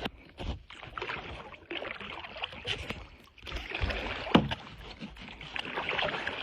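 Water splashing and sloshing around a fishing kayak, with scattered small knocks and clicks of gear on the hull and one sharper knock about four and a half seconds in.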